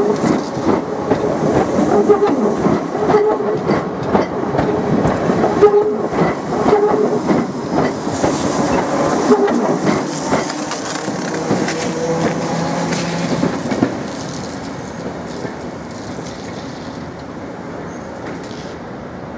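Class 313 electric multiple unit passing close by, its wheels clattering over rail joints in quick runs of sharp clicks. About 14 seconds in, the sound drops to a quieter, steady rumble.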